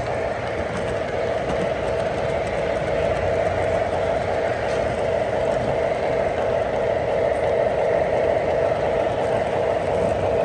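O-gauge three-rail model trains running on the layout: a steady rumble of wheels and motors on the track.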